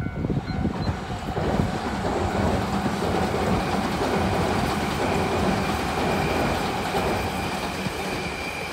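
Tobu 100 series Spacia electric express train approaching at speed, its wheels-on-rail rumble building over the first two seconds and then holding steady. A repeating two-pitch chime dies away within the first half second.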